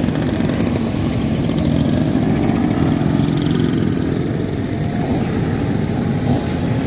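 Many classic scooter and motorcycle engines running together, a steady mixed engine drone with faint rises and falls in pitch.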